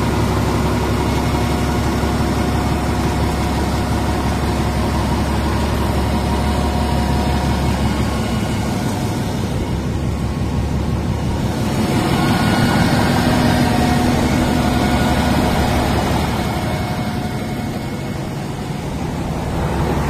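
500 kW Cummins diesel generator set running steadily, its engine note holding even with only a small easing in loudness near the end.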